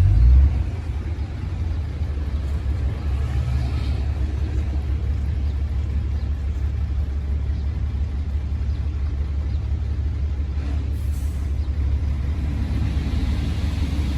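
Komatsu D58P bulldozer's diesel engine running at a steady speed, a constant deep rumble, a little louder for a moment at the start.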